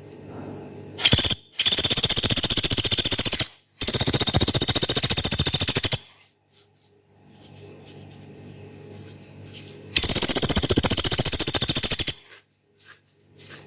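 Pelatuk beras woodpecker giving three long, rapid, harsh rattling calls of high sharp notes, two in quick succession and a third a few seconds later.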